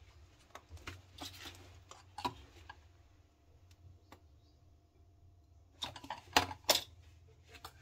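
Washing-machine drain pump parts being handled during reassembly: scattered light clicks and knocks, with a cluster of sharper clacks about six seconds in.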